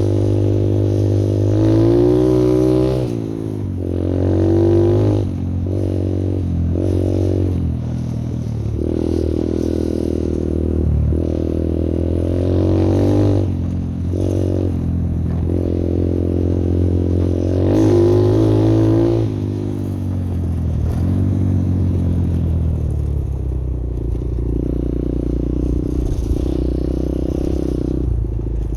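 A small-displacement pit bike's single-cylinder engine, ridden over a trail, revving up and dropping back again and again as the rider works the throttle and shifts. After about 20 seconds it settles into a steadier, lower note.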